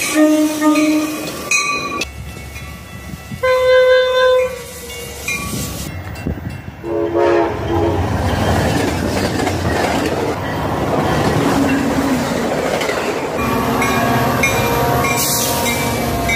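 Passenger and commuter trains sounding their horns and running past: horn blasts near the start, about 3.5 to 4.5 seconds in, briefly around 7 seconds and again from about 13.5 seconds, over a steady rumble with wheels clacking on the rails from about 8 seconds on. The sound changes abruptly at several points where separate recordings are joined.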